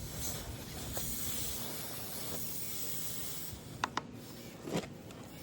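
Steady hiss for about three and a half seconds, then two sharp clicks and a softer knock near the end.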